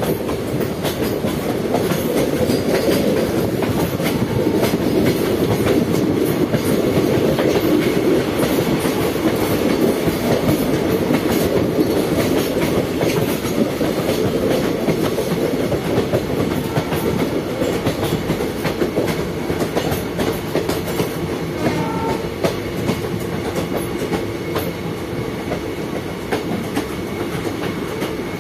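A train running along the track: a steady rumble of wheels on rail, with frequent clicks and clacks.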